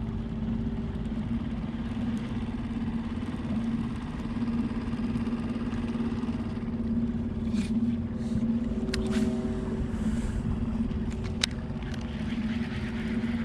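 Small 3.5 hp Tohatsu outboard motor running at a steady speed during its break-in, a constant drone with no change in pitch. A few short clicks come in the second half.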